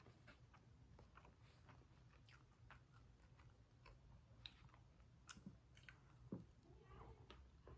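Faint chewing of chicken and noodles, with scattered small mouth clicks and smacks over a low steady hum.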